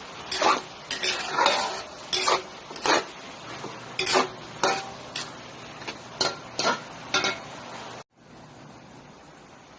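A utensil stirring and scraping food in a pan, clinking against it about twice a second over a steady sizzle of frying. About eight seconds in it cuts off suddenly, leaving a fainter steady hiss.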